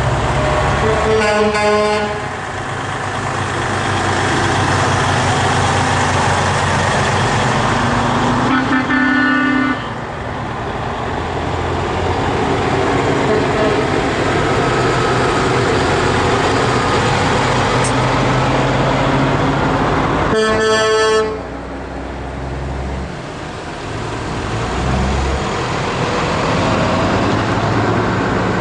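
Heavy trucks' diesel engines running as they drive past in a parade, with three air-horn blasts about a second long each, near the start, about a third of the way in and about two-thirds of the way in.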